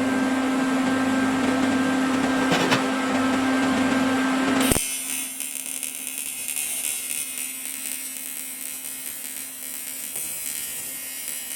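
TIG welding arc on a cracked oil pan, buzzing and hissing steadily, then cutting off abruptly a little under five seconds in. A fainter hum and high whine from the welding machine follow.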